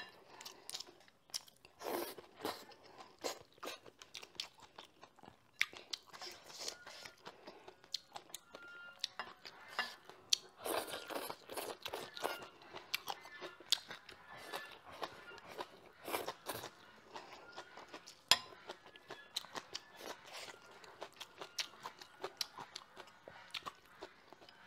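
Close-miked eating sounds: a person chewing and crunching mouthfuls of rice with sliced meat and pickled sour cabbage, with many short, sharp mouth clicks and smacks.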